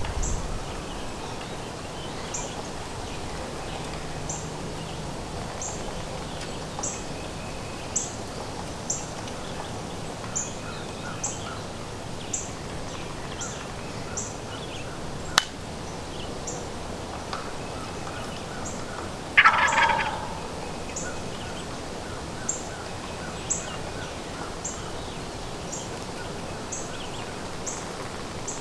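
Wild turkey gobbler gobbling once, loud and close, about two-thirds of the way in, answering the hunters' call. Short high chirps repeat about once a second over a steady background hiss.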